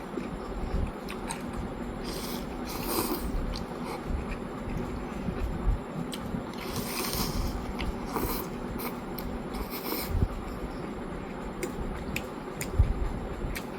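Close-up eating sounds from a noodle meal, with a few hissing slurps and chewing, and scattered sharp clicks of a utensil against a bowl.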